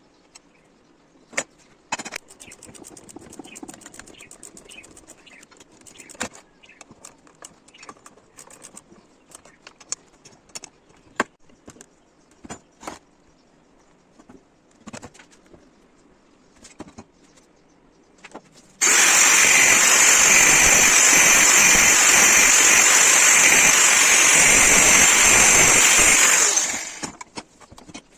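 Scattered light taps and clinks of metalwork, then a loud power tool starts suddenly and runs steadily for about eight seconds before winding down.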